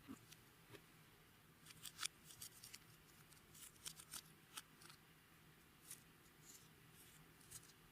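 Faint, irregular sticky clicks and crackles of clear slime being worked by hand, with the loudest snap about two seconds in.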